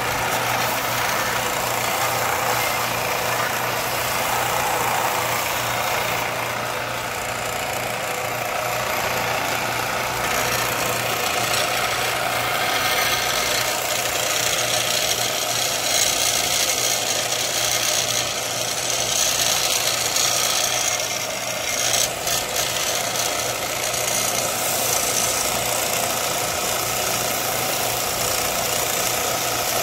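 Electric shop machine running steadily with a constant motor hum, with a harsher, hissier stretch through the middle.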